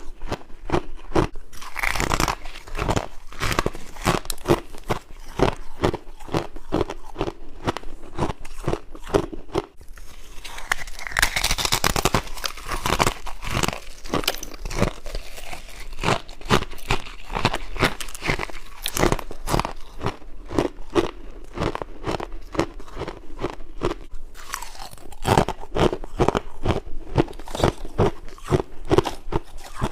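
A person biting and chewing frost ice, making rapid, repeated crunches several times a second.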